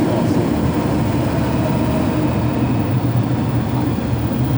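MTR M-Train metro train running, a steady low rumble.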